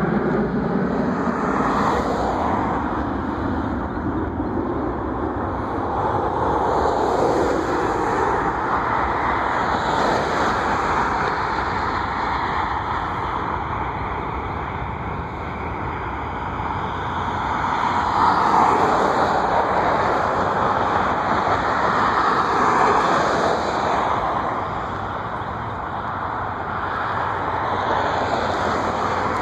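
Steady vehicle noise that swells and eases several times.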